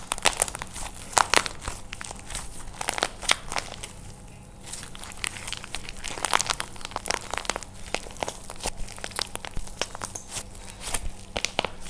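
Dry plaster clay being crushed and cracked by hand, a rapid run of sharp crunches and crackles with a short lull about four seconds in.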